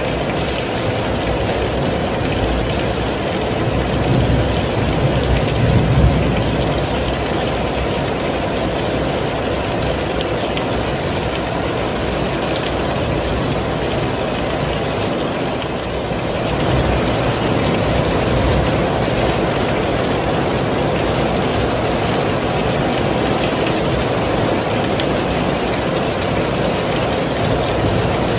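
Steady heavy rainfall. A low rumble swells and fades about five seconds in, and the rain briefly dips then comes back a little louder around two-thirds of the way through.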